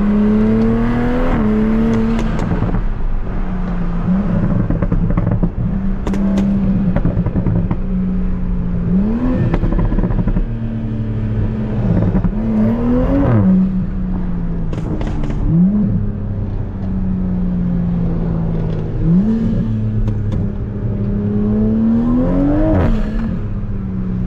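Tuned Toyota Supra MK5's turbocharged B58 inline-six under way, holding a steady drone, with about six short bursts where the revs climb sharply and then drop back. A few sharp cracks are heard along the way.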